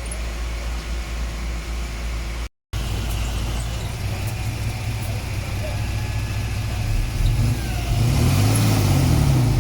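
Heavy diesel engine of earth-moving machinery running steadily, then revving up and back down near the end. The sound drops out completely for a moment about two and a half seconds in.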